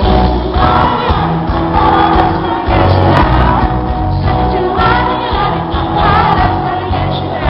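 Live pop music recorded from the audience: a male singer's voice over band accompaniment with heavy bass, possibly with a crowd singing along.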